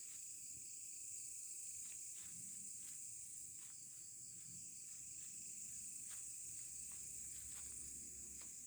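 Crickets chirring in a steady, high-pitched night chorus, with a few faint ticks scattered through it.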